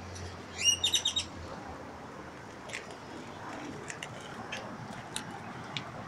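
A bird calling: a quick run of about six sharp, rising chirps just under a second in, then scattered fainter chirps over a steady outdoor background hum.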